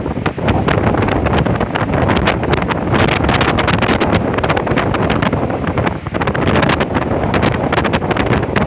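Strong gale wind blowing hard against the microphone, rumbling and crackling, over the noise of a stormy sea. It stays loud, with a brief lull about six seconds in.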